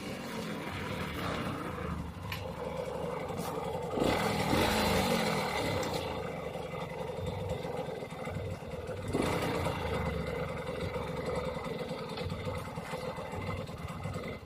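Yamaha YSR50 minibike's small two-stroke single-cylinder engine running. It gets louder for a couple of seconds about four seconds in, and again near nine seconds.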